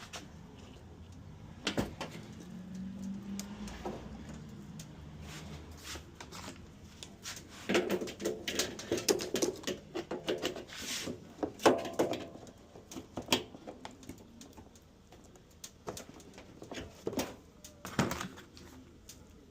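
Objects being handled: scattered knocks and clatter, busiest in the middle, with a low hum for a few seconds near the start.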